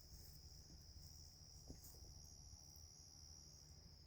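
Faint crickets chirring in a continuous high-pitched trill over a quiet outdoor background.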